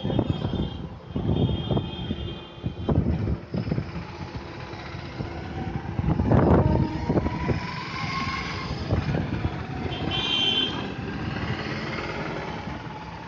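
Indian suburban local train running: a rumble with irregular clatter and knocks from the wheels on the track. Short high squealing tones come near the start and again about ten seconds in.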